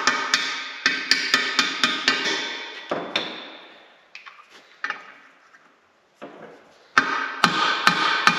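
Hammer blows on steel, driving a bushing into the Bobcat T250's attachment plate, each strike ringing metallically as it dies away. There are quick runs of strikes, a sparser, quieter stretch in the middle, and a fast run again near the end.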